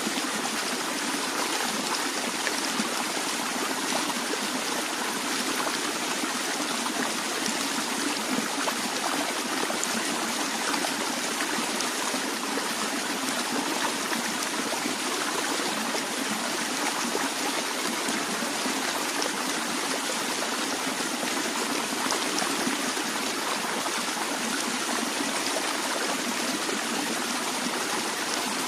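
A stream of water flowing steadily with a continuous trickling and babbling, even and unchanging throughout.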